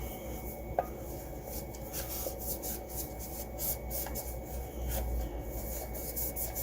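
Scratchy rubbing and scraping of hands handling the robot vacuum's plastic parts, with a couple of light clicks.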